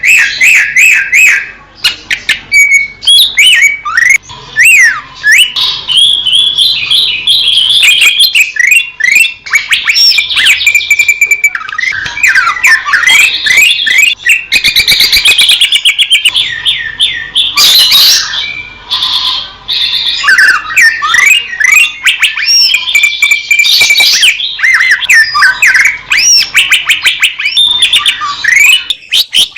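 Green leafbird (cucak ijo) singing a fast, varied song of whistles, rapid rising and falling sweeps and chattering trills, with hardly a pause.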